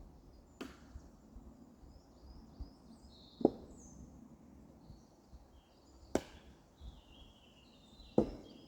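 Firewood being chopped by hand: four sharp single strikes on wood, about every two and a half to three seconds. Birds chirp faintly in between.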